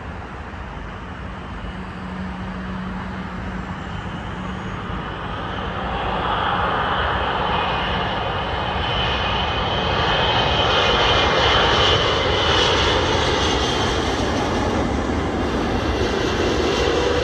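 Qatar Airways Airbus A380 on final approach passing low overhead. Its jet engines rumble, growing louder from about five seconds in with a high whine on top, and are loudest about two-thirds of the way through.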